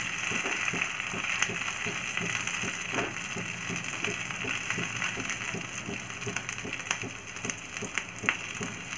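Green chillies sizzling in hot oil in a frying pan, with scattered small pops, while a wooden spatula stirs and scrapes them in short repeated strokes.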